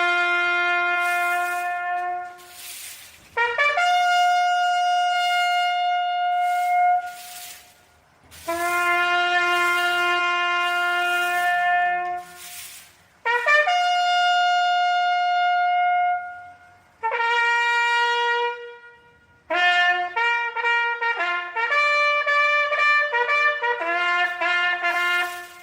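A solo bugle sounding a navy military call. It plays long held notes with short breaks between them, then a quicker run of short notes near the end.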